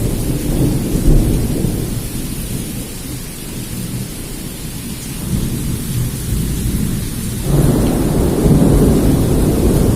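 Thunderstorm: torrential rain with deep rumbling thunder, easing a little in the middle and swelling again about three-quarters of the way through.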